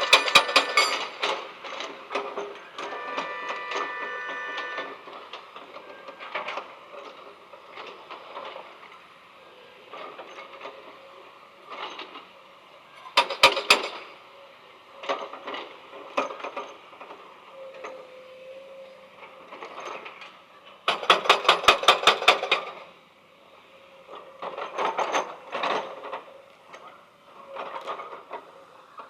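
Small electric motors and gears of a remote-control excavator working in short spells, a whine with rapid clicking and rattling, the loudest clicking runs about halfway through and again about two-thirds of the way through.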